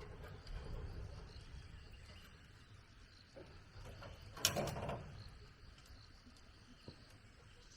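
A single sharp knock about halfway through, over a faint steady background.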